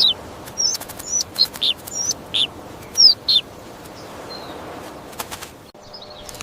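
Small birds chirping: short, high chirps, a few a second for the first three and a half seconds, then a few fainter ones, with sharp clicks in between.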